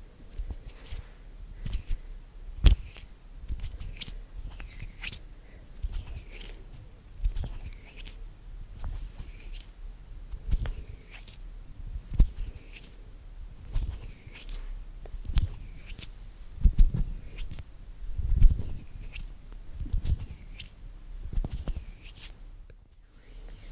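ASMR hand sounds close to the microphone: bare hands brushing, rubbing and patting each other in an irregular rhythm of soft strokes, with a few heavier low thumps.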